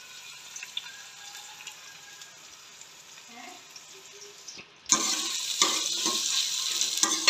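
Sliced onions frying softly in oil in an aluminium pot, then about five seconds in a sudden loud sizzle as a steel ladle stirs and scrapes against the pot.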